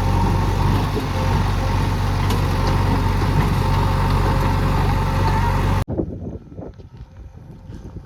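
A heavy diesel engine running steadily at a constant speed. It cuts off abruptly about six seconds in, leaving a much quieter background with faint scattered knocks.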